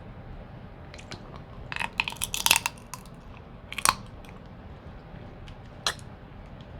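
Seafood-boil shellfish shells cracking and crunching up close: a quick cluster of cracks about two seconds in, then single sharp cracks near four and six seconds.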